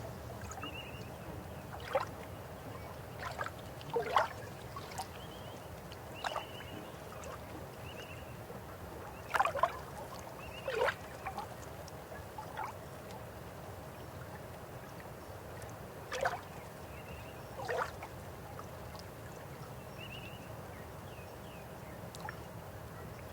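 Steady rushing of a river, with about eight short, louder pitched calls or gurgles breaking in every few seconds and faint high chirps repeating over it.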